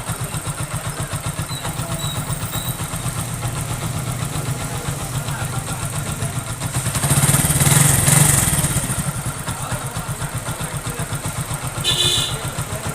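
Hero Super Splendor's single-cylinder four-stroke engine idling steadily after a fresh cylinder and piston-ring rebuild, revved up briefly about seven seconds in and then settling back to idle. A short high-pitched sound comes near the end.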